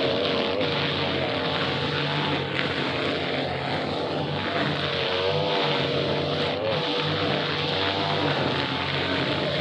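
Small petrol brush cutter (grass-cutting machine) engine running steadily at high revs, its pitch wavering slightly up and down as it works.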